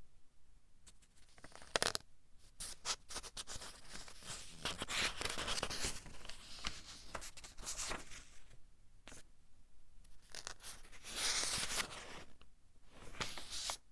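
Pages of a thin-paper book being turned one after another: a string of papery rustles and flips with short quiet gaps, one sharp flick about two seconds in and a louder turn near the end.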